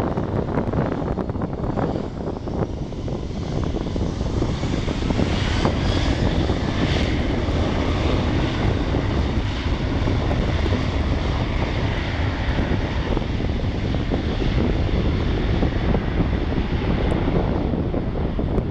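Airliner engines running as the plane passes, a steady rumble with a whine that sweeps in pitch about six seconds in, with gusty wind buffeting the microphone.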